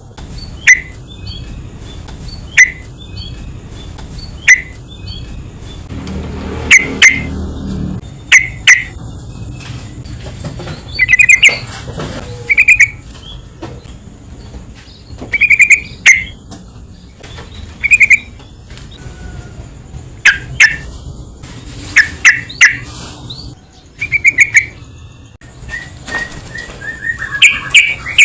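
Yellow-vented bulbul (trucukan) calling: short bubbly chirps in quick runs of two or three notes, repeated every second or two. A low rumble of background noise swells briefly about six seconds in.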